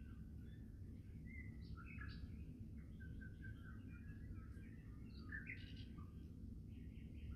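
Faint birdsong: a run of short chirps and brief warbled phrases, over a steady low rumble.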